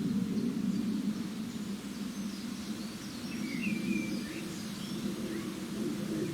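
Steady low rushing noise outdoors, with a few faint bird chirps and whistles in the middle.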